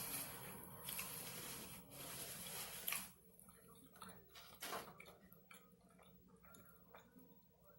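A person eating a sloppy joe and fries: about three seconds of steady, noisy chewing, then quieter chewing with small scattered mouth clicks.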